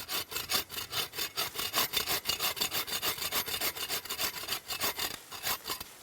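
Hand saw cutting through a wooden stick to square off its end, in quick, even back-and-forth strokes, about four a second.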